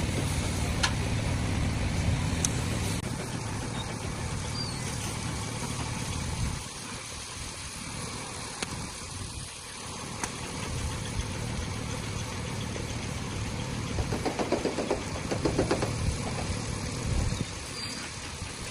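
Car engine idling steadily. Its low rumble drops away about six seconds in, leaving quieter background noise. A spell of rapid rattling comes near the end.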